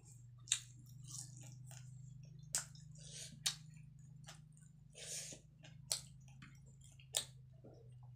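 Close-up chewing of a mouthful of rice and fried fish, with about five sharp wet mouth clicks and smacks spread through it and softer hissy chewing sounds between them. A low steady hum lies underneath.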